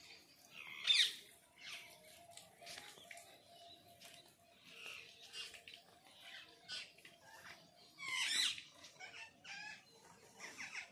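Birds calling and chirping, with three louder calls about a second in, about eight seconds in and at the very end, over a faint steady hum.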